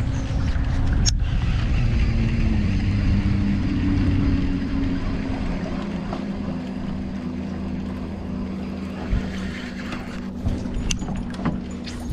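A small boat motor running steadily, its pitch stepping down a little a few seconds in, with a few sharp knocks near the end.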